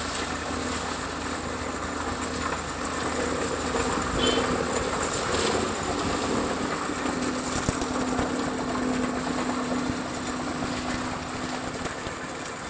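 Engine of heavy road construction machinery running steadily, a continuous drone with a low hum.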